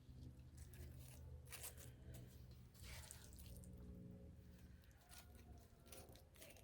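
Faint scraping and crunching as a spoon spreads ground-beef taco meat over a layer of Fritos corn chips, with scattered small sounds over a low steady hum.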